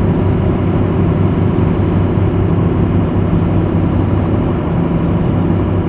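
Truck camper cruising on smooth pavement: a steady engine drone and road noise that hold even throughout.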